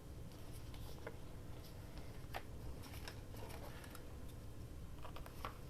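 Faint rustling of paper being handled and set down on a craft table, with a few light taps and clicks spread through the pause, over a low steady room hum.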